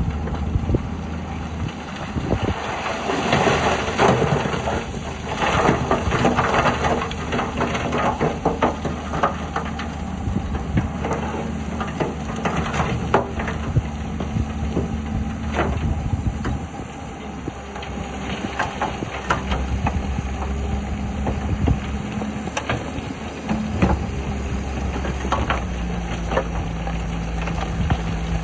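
Heavy diesel engines of earthmoving machines running, their pitch shifting now and then, with many clanks and crunches of rock and metal throughout.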